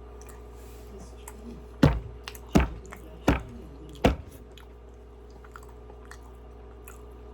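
Close-miked chewing of a Krispy Kreme doughnut: four loud chews with a deep thump, evenly spaced under a second apart in the middle, among faint mouth clicks.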